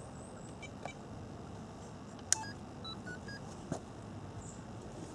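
A sharp click, then a quick run of short electronic beeps, each at a different pitch, over about a second, and a second click shortly after, over a faint steady hiss.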